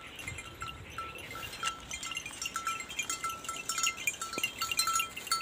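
Birds calling: one repeats a short, high, clear note several times a second, with other chirps above it.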